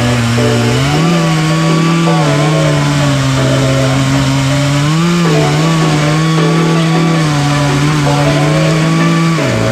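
Two-stroke chainsaw running at high revs while cutting through a log. Its pitch sags and recovers a few times as the chain loads up in the wood, then drops away near the end as the throttle is released.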